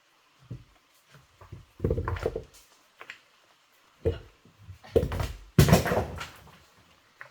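Irregular thuds and knocks of hard objects being handled and set down, in a few clusters with quiet gaps between them.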